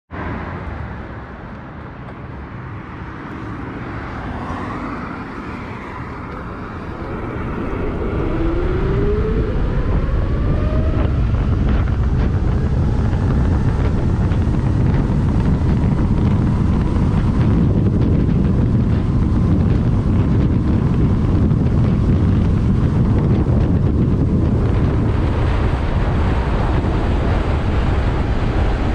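Wind rushing over the microphone on a moving e-bike, growing louder about eight seconds in and staying loud as speed builds. A faint whine rises in pitch during the first ten seconds or so.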